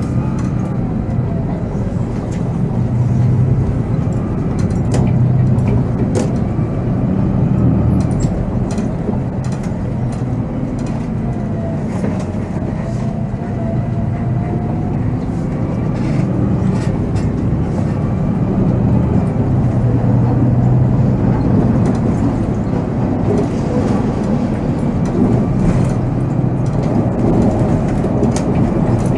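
Volvo B7R coach's diesel engine running on the move, heard from the driver's seat, its note swelling and easing every few seconds with speed. A faint whine rises and falls in pitch, and short rattles and clicks come and go throughout.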